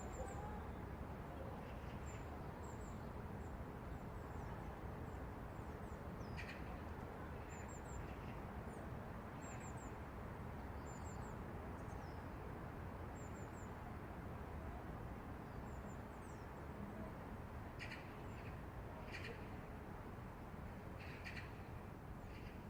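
Steady outdoor city hum, like distant traffic, with small birds chirping thin and high again and again, and a larger bird calling four or five times near the end.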